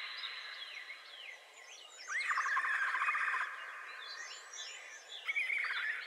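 Wild birds singing: a few short, down-slurred chirps in the first two seconds, then a longer trilled song phrase about two seconds in, and more chirping near the end, over a faint steady high tone.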